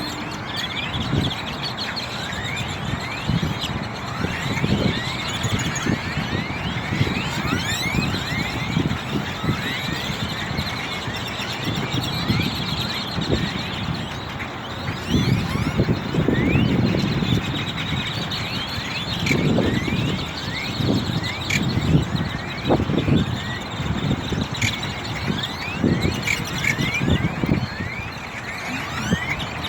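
A large flock of birds calling all at once: a dense, unbroken chatter of many short, squeaky calls. Irregular low rumbles run underneath.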